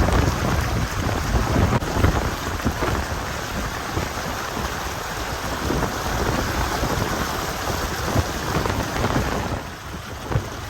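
Tropical-storm rain and wind: a steady, loud rushing noise with rumbling gusts, easing briefly near the end.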